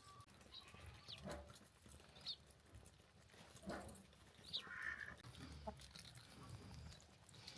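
Faint livestock sounds, goats or sheep: a few short high calls and two soft thumps, over a low steady rumble.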